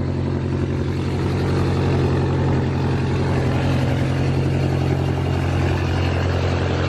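Car engine idling steadily close by, a low, even exhaust note that holds the same pitch throughout.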